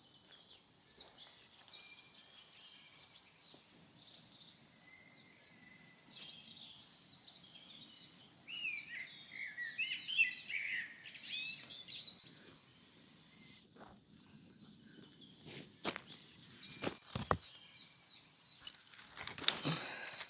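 Small birds chirping and twittering, with a louder, busier run of calls about eight to eleven seconds in. A few sharp knocks come near the end.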